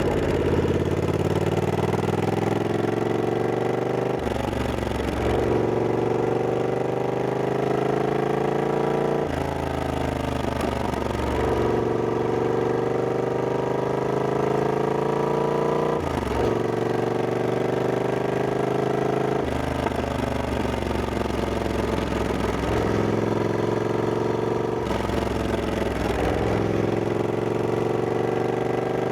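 Triumph Scrambler 1200X's 1200 cc parallel-twin engine under way. Its revs climb steadily and then drop back again several times as it pulls through gear changes or rolls off the throttle.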